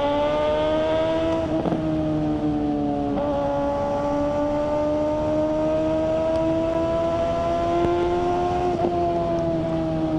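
Suzuki GSR600's inline-four engine through a GPR Ghost aftermarket exhaust, pulling with its pitch climbing steadily. The pitch drops suddenly three times as it shifts up a gear, and near the end the engine eases off.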